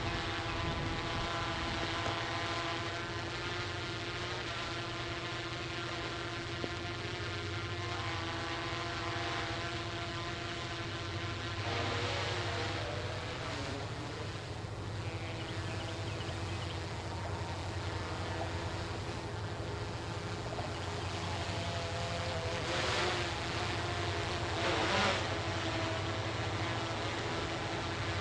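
Tugboat diesel engine running steadily with a low, even drone as the tug pushes a barge, with a couple of brief louder sounds over it.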